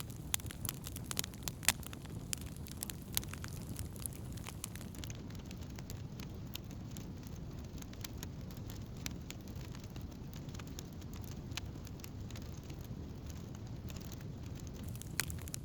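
Wood campfire crackling, with frequent sharp pops and snaps that are densest in the first few seconds and thin out afterwards. A steady low rumble runs underneath.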